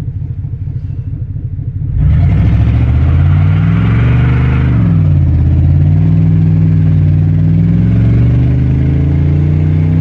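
Truck engine idling, then revved hard about two seconds in for a rolling burnout attempt. It is held at high revs, its pitch dropping briefly near the middle and climbing again.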